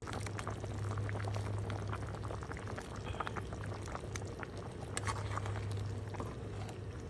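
Pot of soup at the boil, bubbling with irregular small pops, over a steady low hum.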